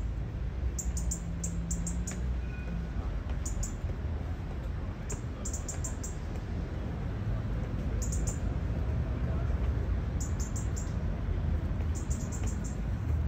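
Outdoor city ambience with a steady low rumble, over which a small bird chirps in quick bursts of three or four high notes every couple of seconds.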